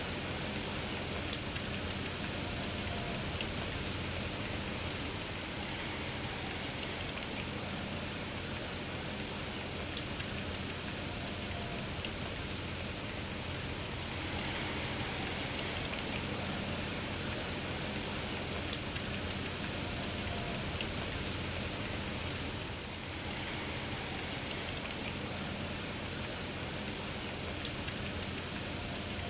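Steady rain falling, an even hiss of many drops, with a few louder single drop ticks spaced several seconds apart.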